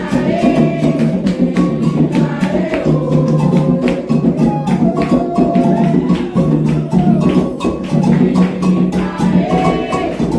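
Candomblé atabaque drumming in a fast, dense rhythm of strokes, with voices singing over it.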